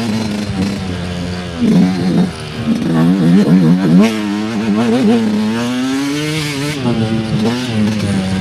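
Dirt bike engine under way on a trail, its revs rising and falling again and again with the throttle, with several quick rises and a steadier stretch near the end.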